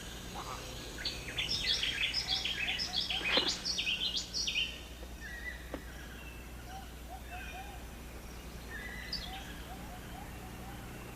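Rainforest ambience with birds calling: a rapid run of high chirping notes from about one to five seconds in, then sparser, fainter calls.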